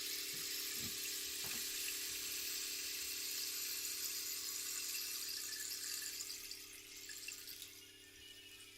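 Steady rain-like rushing hiss, which fades away about seven seconds in, over a faint steady hum.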